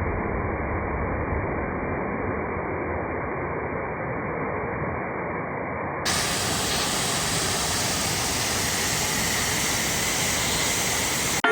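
Steady rushing water. It sounds muffled, with the highs cut, for the first six seconds, then suddenly turns full and bright.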